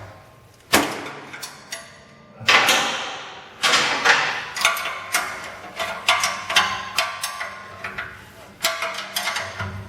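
Metal knocks and clanks with a ringing decay, irregular and several in quick succession in the middle: steel exhaust pipe sections and parts being handled and fitted together.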